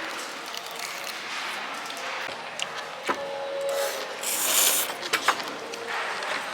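Tabletop eating sounds: rustling and a few sharp clicks and clinks over a steady room hubbub, with a brief crinkly rustle near the middle.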